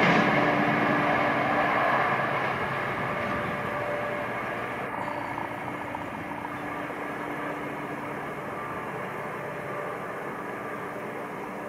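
Passenger train rolling away on the rails, its wheel and rail noise fading over the first few seconds and then settling to a faint steady rumble.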